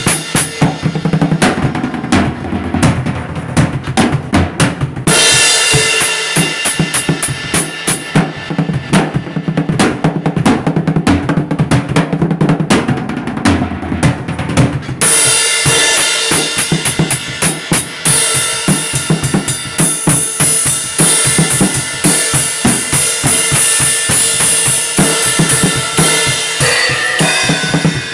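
Music driven by a drum kit: a busy, steady beat of kick drum, snare and fast cymbal strikes, with the arrangement changing about five seconds in and again about fifteen seconds in.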